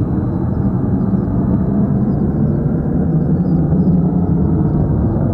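Boeing 727-200 trijet with three Pratt & Whitney JT8D low-bypass turbofans departing: a loud, steady low rumble of the engines as the jet climbs away.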